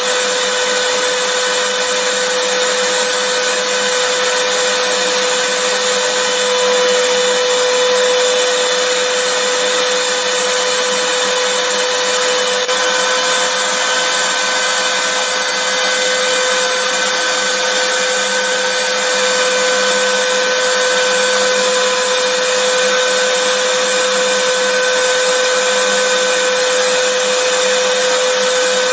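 Vacuum cleaner motor running steadily, a constant whooshing airflow with a steady high whine.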